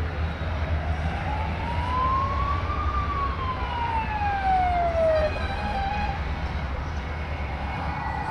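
A siren wail that rises for about two seconds and then falls away over the next two, over the steady low rumble of motorcycle engines.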